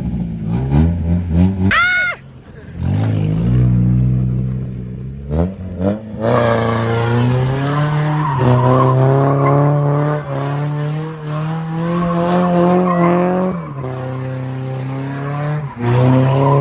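A car engine held at high revs while the tyres squeal in a wavering, sustained screech, as in a burnout or donuts. The revs drop briefly twice near the end.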